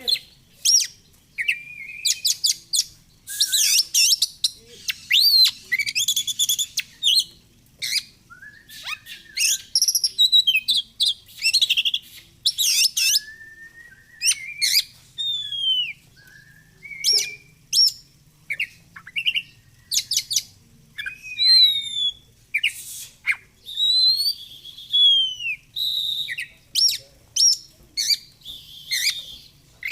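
Oriental magpie-robin singing a long, varied song of clear whistled notes, sliding glides and harsh rapid chattering phrases, packed with mimicked calls.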